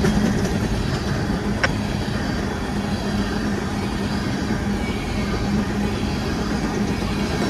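Empty coal cars of a freight train rolling past: a steady rumble of steel wheels on rail with a faint hum, and a single sharp click about one and a half seconds in.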